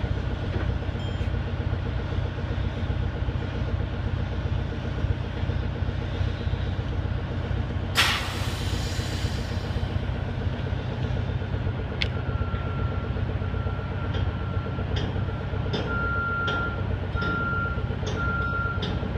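Detroit Diesel engine of an American Hoist & Derrick 9530 crane running steadily under load. About eight seconds in there is a loud hiss of about a second, like an air release. From about twelve seconds on, a backup alarm beeps over and over.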